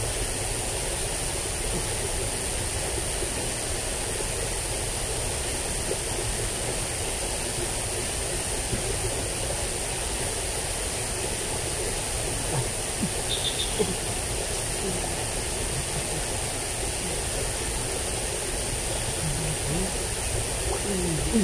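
Steady rushing of flowing ditch water, running high after a flood, with a steady high-pitched hum over it.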